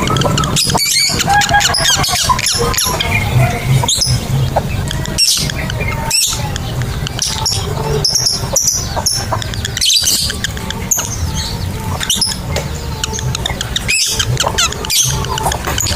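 Lovebirds chattering: a steady run of short, sharp, high-pitched chirps and squeaks, over a low steady hum.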